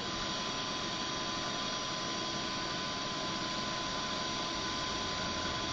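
Comet 3KVHD knee mill running with its spindle turning: a steady machine hum with a constant whine.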